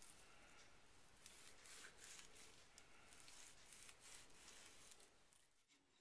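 Near silence: faint room hiss with a few very soft rustles.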